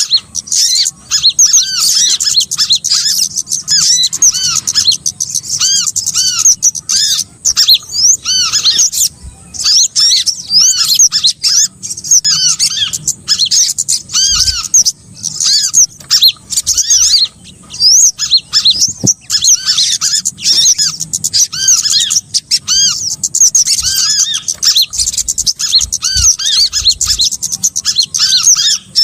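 Dense chorus of small-bird calls from a bird-trapping lure recording: short, high, arched chirps repeated several times a second without a break, several calls overlapping at once.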